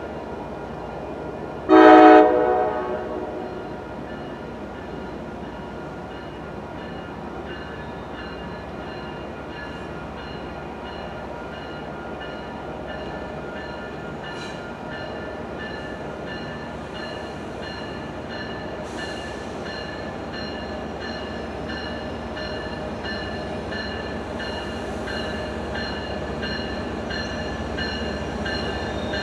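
MBTA diesel commuter train sounding one short, loud horn blast about two seconds in, followed by the steady running hum of the train as it approaches, growing a little louder near the end.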